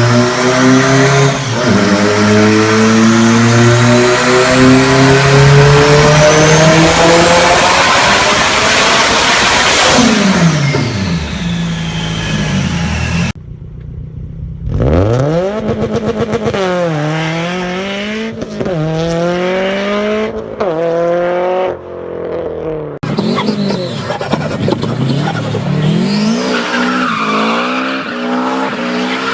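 Turbocharged car engine accelerating hard, its pitch climbing steadily for about ten seconds with a high whine rising along with it, then dropping off. After a sudden cut, the engine revs rise and fall repeatedly across several short clips.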